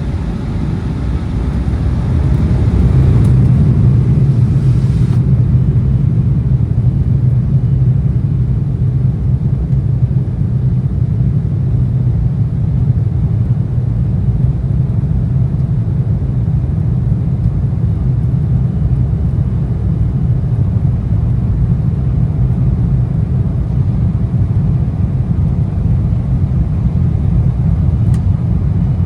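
Cabin noise of an Embraer ERJ-175 airliner in flight: the steady low rumble of its two GE CF34 turbofan engines and the airflow, heard from a seat over the wing. The rumble grows louder over the first few seconds, and a higher hiss drops away about five seconds in.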